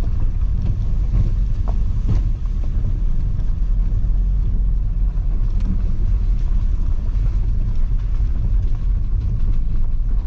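Inside the cabin of a car driving slowly over a rough, potholed gravel farm track: a steady low rumble of engine and tyres, with a few faint knocks about two seconds in.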